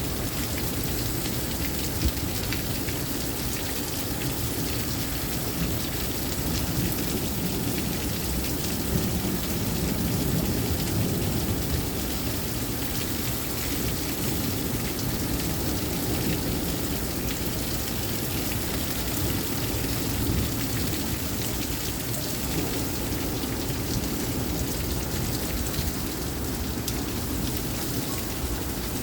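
Heavy thunderstorm rain pouring steadily, a dense patter of drops over a constant low rumble.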